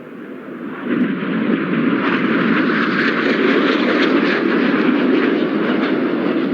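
BAE Hawk T1 jets of the Red Arrows formation passing close by in a display break: jet engine noise that swells sharply about a second in and stays loud.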